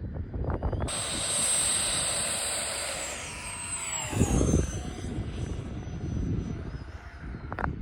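Freewing Zeus 90mm 12-blade electric ducted-fan jet making a fast pass. Its high-pitched fan whine and rushing air come in suddenly about a second in, then drop in pitch as it goes by.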